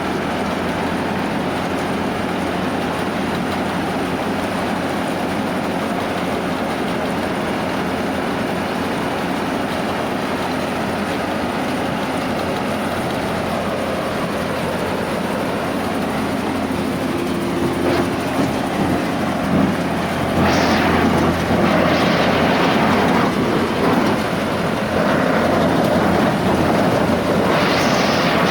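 Wheat-harvesting machine running steadily with a low engine hum. In the second half the noise grows louder in several rushing swells as the machine takes up work.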